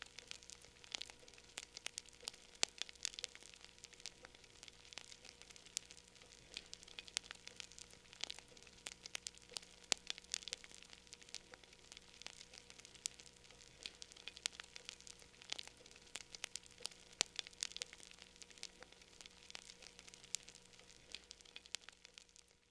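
Wood fire burning in a fireplace, crackling faintly with many quick irregular snaps and pops, over a faint steady low hum.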